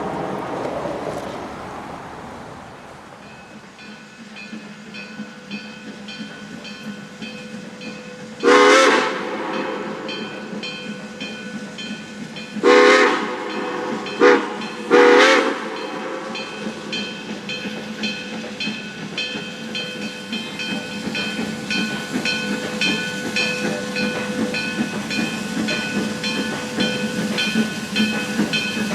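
Steam locomotive whistle sounding the grade-crossing signal: two long blasts, a short one and a long one, over steam hiss and a steady repeating ring from the passing train.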